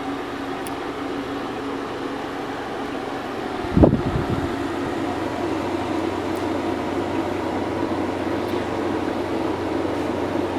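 Air conditioner fan running with a steady hum. About four seconds in comes a single sharp, low thump.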